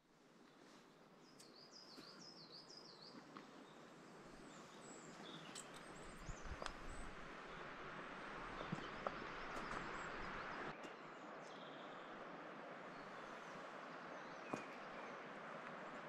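Woodland birds singing over a steady rushing background: a warbling phrase about two seconds in, then scattered short chirps. A few soft knocks come near the middle and once near the end.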